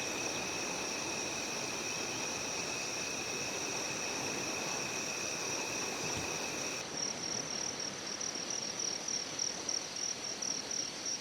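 Insects calling over a steady low hiss: a continuous high trill at two pitches, which changes abruptly about seven seconds in, the lower trill stopping and the high one becoming a fast, even pulsing chirp.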